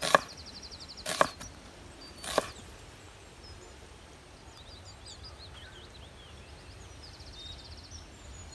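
Three sharp chopping blows, about a second apart. Scattered bird chirps and a rapid high trill follow, the trill heard twice.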